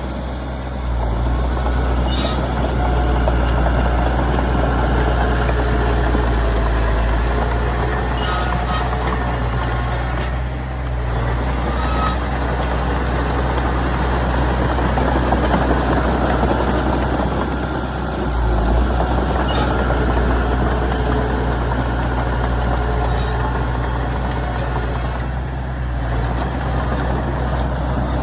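Heavy diesel earthmoving machinery running steadily with a deep engine rumble, with a few short metallic clanks now and then.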